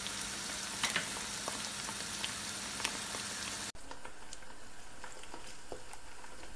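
Sliced onions and ginger sizzling steadily in hot oil in a nonstick pan while being stirred with a spoon, with scattered light scrapes and clicks. About halfway through there is a brief dropout, after which the sizzle is softer.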